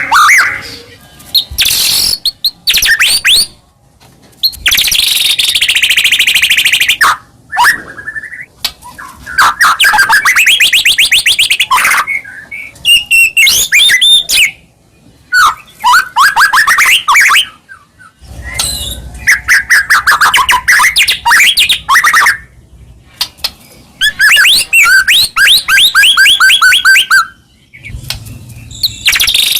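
White-rumped shama (murai batu) singing loud, varied phrases of fast, rapidly repeated notes and trills, each a second or two long, broken by short pauses.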